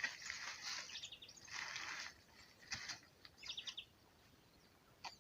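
Small birds singing, with two quick chirping trills about a second in and again past the middle, over short bursts of rustling.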